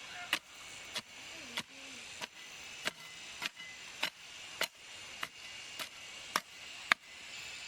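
A steady run of sharp blows on wood, about one every 0.6 seconds, stopping about seven seconds in, over a steady high hiss.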